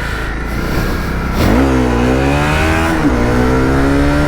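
Honda CRF250L's single-cylinder four-stroke engine revving up about a second and a half in, then pulling under throttle with the pitch rising and falling as the bike is ridden off-road.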